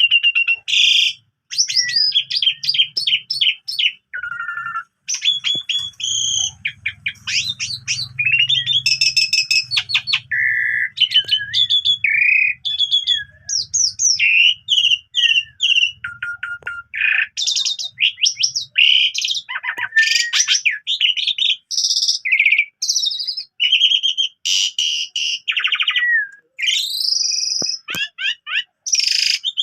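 Asian pied starling singing a long, unbroken, varied song of loud whistles, rapid chattering trills and many different mimicked phrases. A faint low hum runs underneath for the first ten seconds or so.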